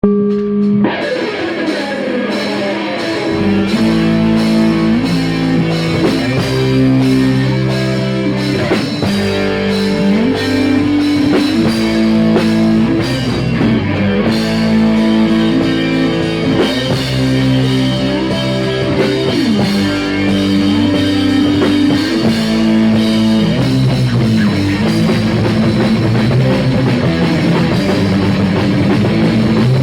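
Rock band playing live at rehearsal: guitar chords ring out alone at first, then drums and a heavier low end come in about three seconds in, and the full band plays on with changing chords and cymbal wash.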